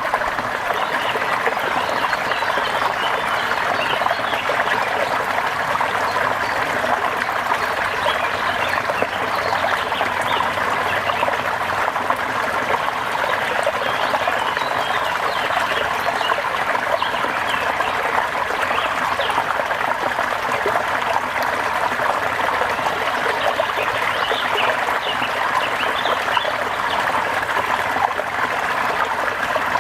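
Steady rain with trickling, running water: an even rushing hiss that holds level throughout, with faint scattered chirps on top.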